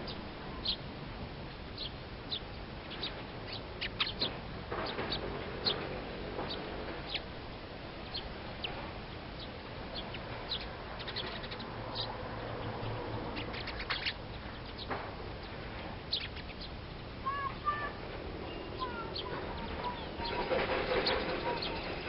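Small wild birds calling: many short, sharp high chirps scattered throughout, with a few lower whistled notes about three quarters of the way in. A louder noisy stretch comes near the end, over a faint steady low hum.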